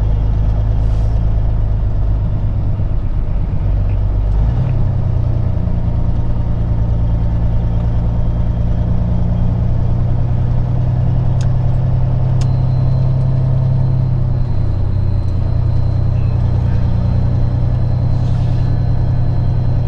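Peterbilt 379 semi truck's diesel engine running at low speed, heard inside the cab. Its pitch steps up about a quarter of the way in and eases back down about three quarters through.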